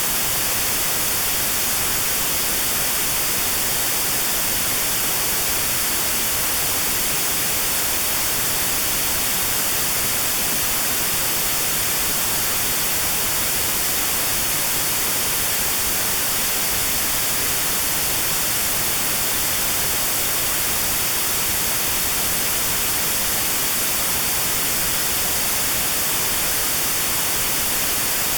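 Steady notch-filtered white noise: an even hiss with a narrow band around 4 kHz removed, made for notched tinnitus sound therapy.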